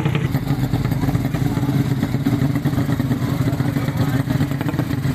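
Underbone (bebek) drag-racing motorcycle engine running loudly at a steady, rough idle without revving.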